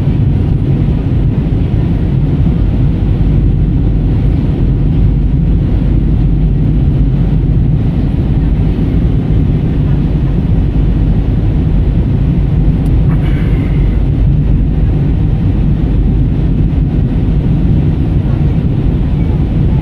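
Steady low cabin noise of an airliner in flight: engine and airflow rumble, heavy in the bass and unchanging throughout.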